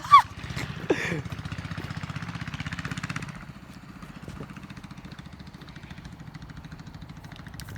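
Mini bike's small single-cylinder engine running with a fast, even firing rhythm, growing quieter a little after three seconds in.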